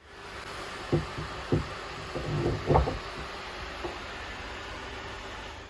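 A few hollow knocks and clunks, parts and tools being handled during washbasin plumbing work, over a steady background hiss; the loudest clunk comes near the middle.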